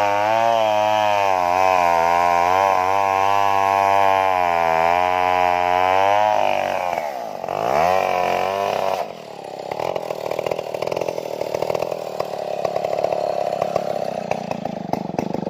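Stihl two-stroke chainsaw cutting at high revs, its pitch wavering as the chain loads in the wood. About six seconds in the revs drop sharply and climb back, and from about nine seconds on it runs lower and rougher with a rattle.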